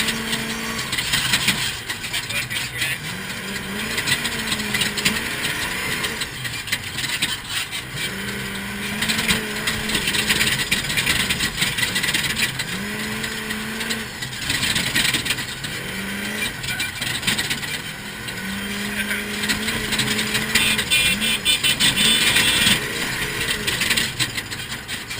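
Off-road vehicle engine running under load, its pitch climbing and then holding several times over, with heavy wind and rough-ground noise over it.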